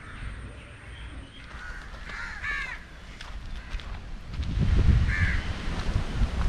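A bird calling outdoors: a few short, harsh calls in quick succession about two seconds in and another about five seconds in, over a low rumble that grows louder in the second half.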